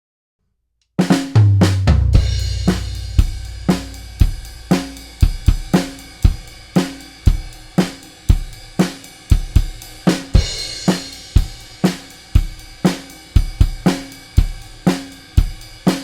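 Drum kit playing a steady beat of kick, snare, hi-hat and cymbals, recorded straight through a Warm Audio WA-412 mic preamp with no EQ or compression. It comes in after about a second of silence with a heavy opening hit and a long low ring.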